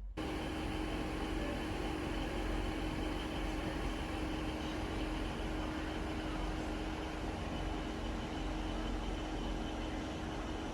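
Class 150 diesel train's underfloor diesel engine idling, heard inside the carriage: a steady drone with a low hum and a held mid-pitched tone.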